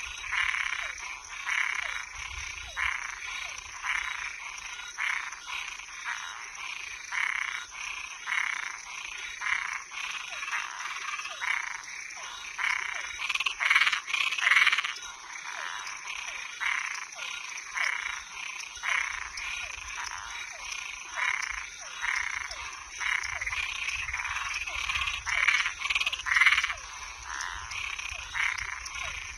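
Night chorus of frogs and treefrogs calling from a pond edge: short, repeated notes, about one to two a second, overlapping from several animals. A steady high insect trill, typical of crickets, runs underneath.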